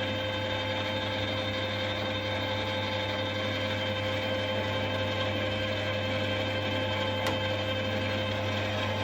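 Emco Maximat Super 11 lathe running steadily under power, its motor and geared headstock giving an even hum and whine, with one brief click about seven seconds in.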